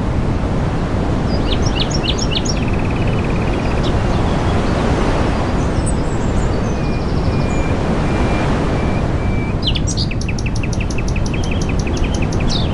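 Small birds chirping and calling over a loud, steady rushing noise: a few sharp chirps early, a row of short whistled notes in the middle, and a quick run of repeated notes near the end.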